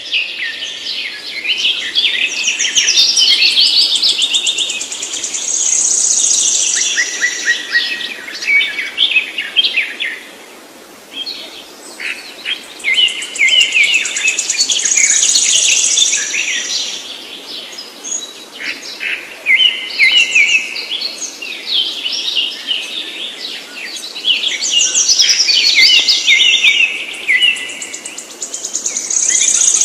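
A songbird singing long, rapid, varied songs of high chirps and trills, in three bouts of several seconds each with short pauses between.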